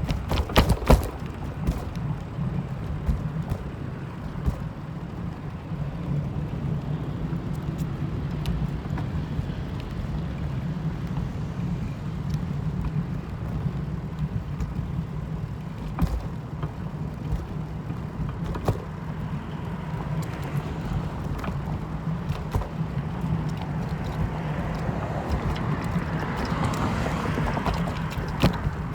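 Steady low vehicle rumble, like riding inside a car, with scattered clicks and knocks and a short cluster of loud knocks about a second in.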